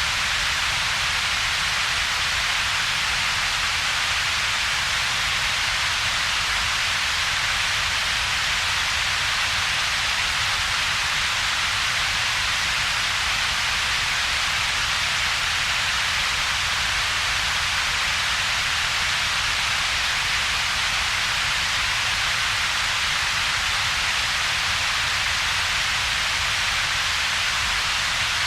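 Synthetic double-peaked noise, generated with two peaks of power: a low rumble and a brighter hiss higher up, with a dip in between. Steady and unchanging, like a rain-like hiss.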